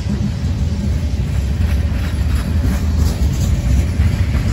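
Freight train of boxcars rolling past: a steady low rumble of steel wheels on rail.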